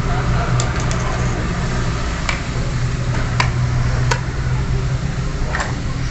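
Hard plastic toy pieces clicking and knocking, about six sharp clicks spread over a few seconds, over a steady low hum.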